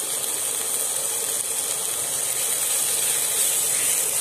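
Chopped onions and tomatoes frying in ghee in a nonstick pan, a steady sizzle while the mix is stirred.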